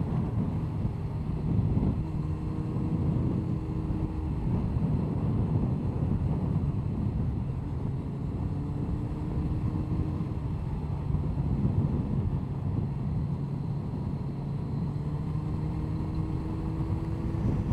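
Onboard sound of a Honda CBR1100XX Blackbird's inline-four engine running at a steady road pace, under wind and road noise. The engine note climbs gently a few times.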